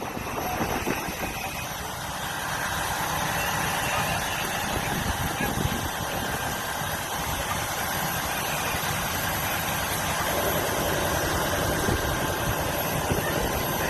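Fire apparatus engine running steadily, getting louder over the first few seconds and then holding.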